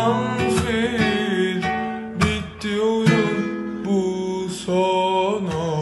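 Slowed-down song: strummed acoustic guitar with a female voice holding drawn-out, wavering notes, a few chords struck across it.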